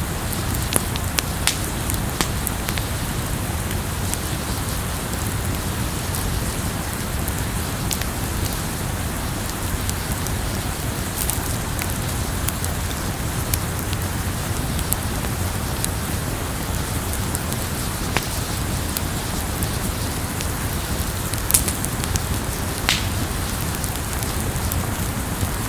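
Campfire crackling: a steady hiss and low rumble of burning wood with scattered sharp pops and snaps, two of them louder near the end.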